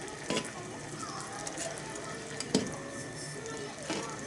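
Utensil stirring in a small iron pot of simmering kimchi hot pot, knocking against the pot three times, loudest about halfway through, over a steady sizzle.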